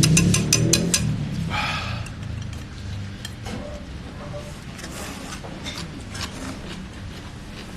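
Eating sounds from a bowl of spicy jjamppong noodles close to the phone: a quick run of sharp clicks, then a short noisy burst a second and a half in, then scattered small clicks.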